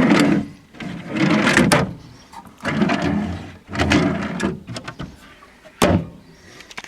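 Boat cabin storage drawers and compartment lids being handled: four scraping slides in a row, then a sharp knock about six seconds in as one is shut.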